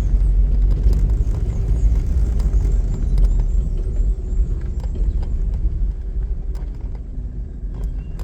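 Car driving slowly, a steady low rumble of engine and road.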